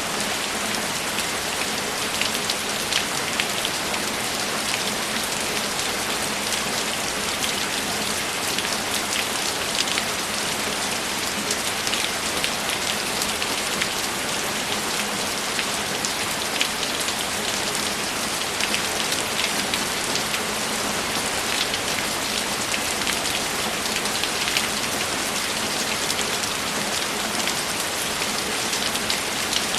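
Steady rain falling and pattering on a surface, with many small drop ticks in an even hiss.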